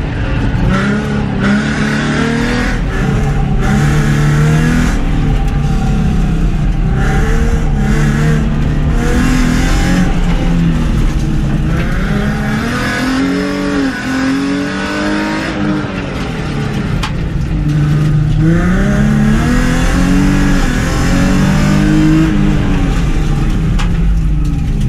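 Race car's engine under hard acceleration through an autocross run, its pitch climbing and dropping again and again as the driver accelerates and lifts between corners.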